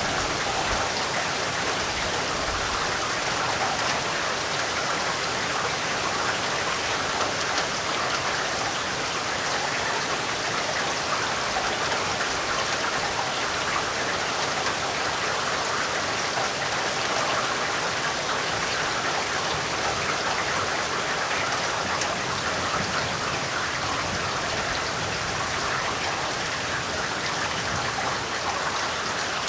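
Steady rainfall with raindrops pattering on surfaces, an even hiss without thunder.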